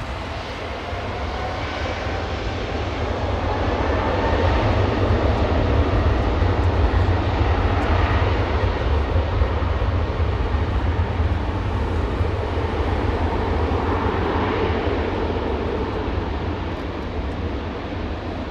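Thai Airways Airbus A380's four Rolls-Royce Trent 900 jet engines at takeoff power: a dense roar with a deep rumble that swells to a peak several seconds in and then slowly eases off as the airliner goes by.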